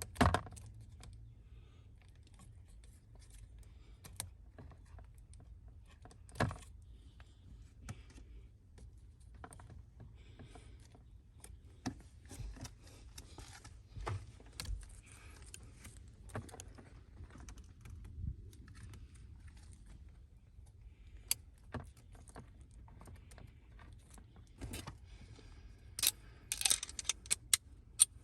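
Scattered clicks, knocks and metallic clinks of tools and small parts being handled during steering wheel work, with a quick cluster of jangling clinks near the end.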